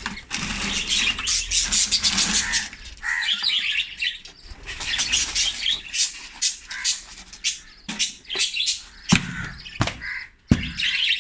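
A flock of budgerigars chirping and chattering continuously, many birds calling over one another, with a few sharp knocks near the end.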